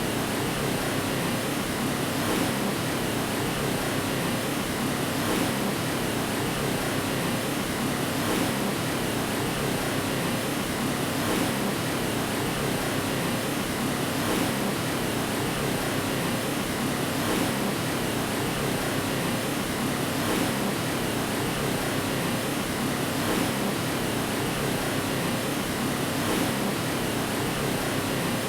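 White noise for lulling a baby to sleep: a steady, unchanging rushing hiss, fullest in the lower middle range.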